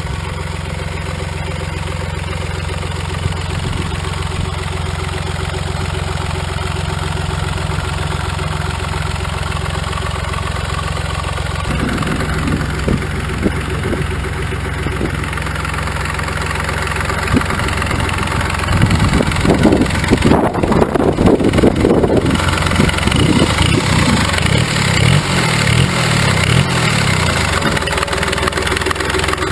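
Smart CDI three-cylinder turbodiesel engine of a diesel motorcycle running steadily at idle. Past the middle it gets louder and rougher for several seconds, with the pitch wavering.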